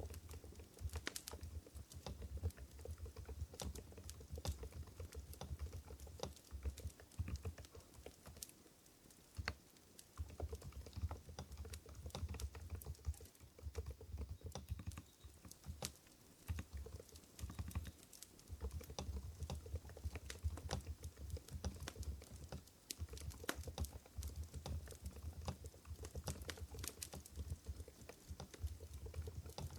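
Typing on an Mstone Groove GV10 Purpler MA electrocapacitive keyboard with silent Coral 45 g switches: quiet keystrokes in a quick, irregular patter, thinning briefly about eight seconds in.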